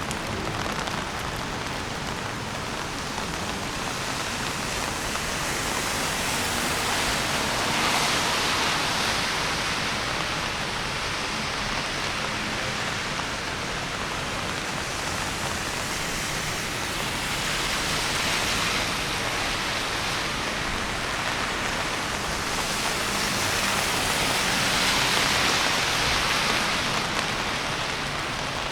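Steady rain, an even hiss that swells louder three times: about a quarter of the way in, a little past the middle, and near the end.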